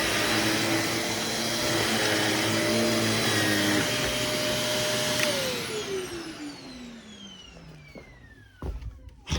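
Shark NV26 upright vacuum cleaner running, then switched off about five seconds in, its motor whine falling steadily as it spins down. Two knocks near the end.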